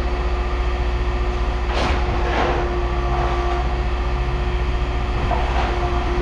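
A steady machine drone, a low hum with a constant tone over it, like an idling engine or running equipment, with a couple of faint knocks about two seconds in.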